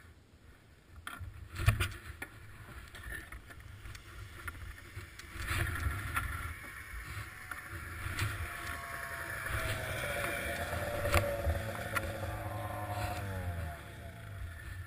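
Arctic Cat ZR800 snowmobile's two-stroke twin engine running, faint at first and louder from about five seconds in, its pitch dropping near the end as it slows. The owner suspects its rough running comes from bad fuel injectors.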